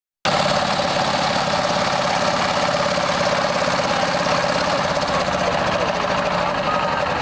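Engine of a small boat running steadily and close, starting abruptly a moment in after a cut.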